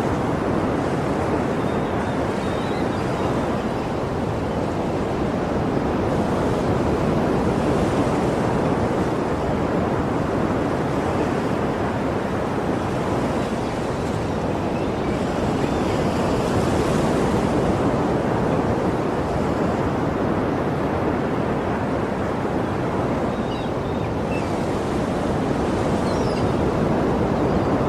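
Sea waves breaking and washing on a shore, a steady rushing surf that swells gently every few seconds.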